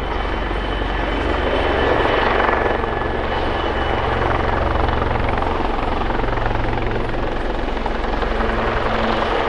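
Two Wildcat HMA.2 helicopters hovering: a steady rotor thrum under a thin turbine whine, swelling a little about two seconds in.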